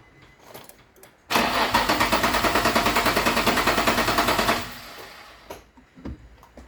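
Nissan 350Z's V6 cranking over on the starter for about three seconds without starting, with a rapid, even pulsing as the cylinders come up on compression. This is cranking during a compression test, with a spark plug out.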